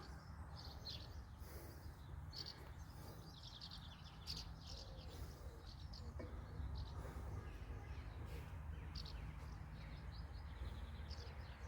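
Small birds chirping now and then, high and brief, over a steady low rumble of distant road traffic.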